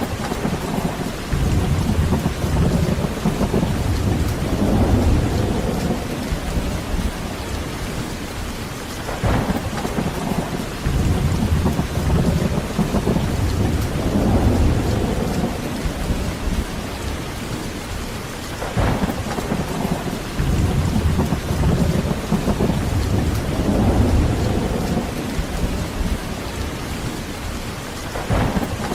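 Heavy rain falling steadily, with rolling thunder rumbling in waves about every nine or ten seconds. Each wave opens with a sharper crack and then swells and fades.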